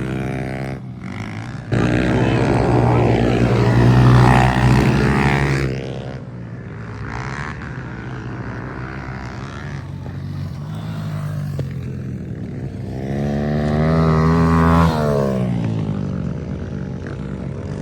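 Pit bike engines running on the track, with one bike loud about two seconds in and another revving up and dropping off in pitch near the end.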